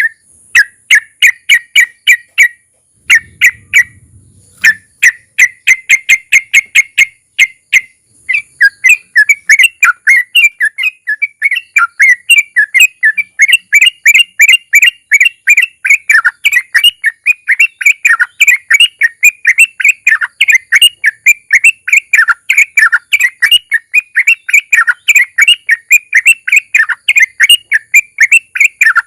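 Sooty-headed bulbul (trucukan) singing a long run of rapid, repeated bubbling notes, the drawn-out 'ropel' song that hobbyists play to set other bulbuls singing. A brief pause about three seconds in, then the notes come faster and closer together.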